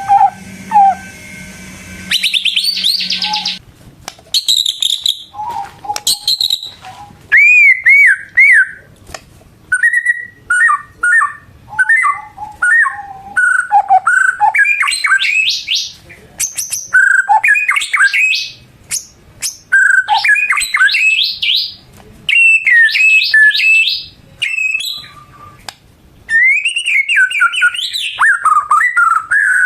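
White-rumped shama (murai batu) in full song: a long run of loud, varied phrases of rapid whistles, swoops and chattering notes, with short pauses between phrases.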